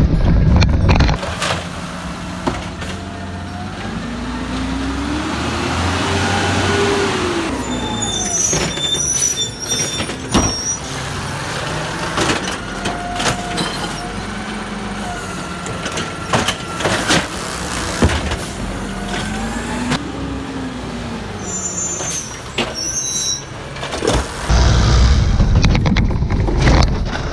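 Garbage truck running, its engine pitch rising and falling twice as it revs, with scattered knocks and clanks and a heavy low rumble near the end.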